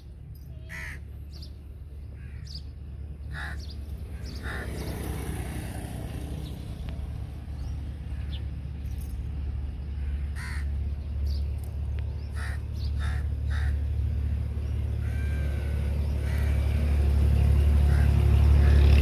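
Short bird calls, repeated at irregular intervals, over a low steady rumble that grows steadily louder.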